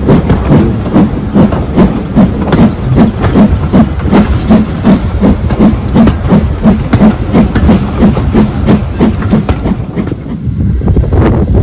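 Steam locomotive working, its exhaust beating evenly at about four beats a second. The beats fade away about ten seconds in, leaving a steady rushing noise.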